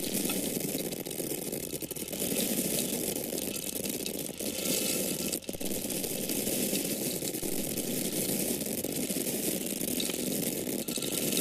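Dry corn kernels falling in a continuous stream, a dense rattle of many small grains landing, thinning briefly a few times.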